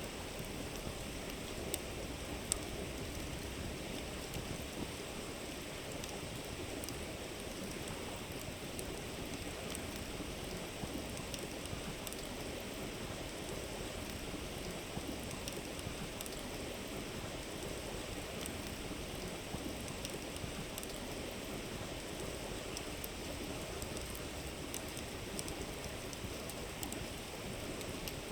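A river runs with a steady rushing murmur while a campfire crackles, with small sharp pops scattered through it.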